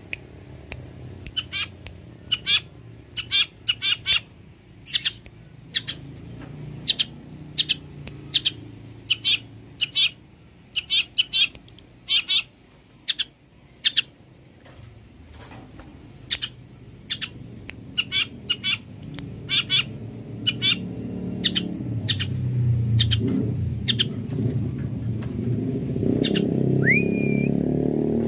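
Long-tailed shrike calling: a long run of short, sharp, harsh notes, many in quick pairs or threes, with one whistled note near the end. A low rumble grows louder in the background over the second half.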